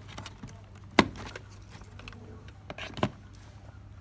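Two sharp clicks about two seconds apart, with light ticking of handling between them, as a transformer and its plug-in connector are fitted to an air-conditioner control board. A low steady hum runs underneath.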